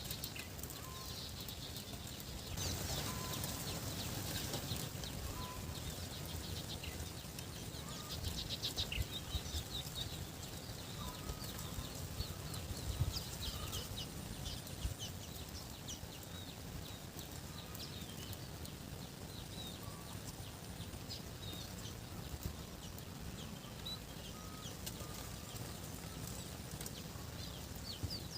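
Outdoor rural ambience: small birds chirping on and off over a steady background hiss, with a few short knocks about a third of the way in and again near the middle.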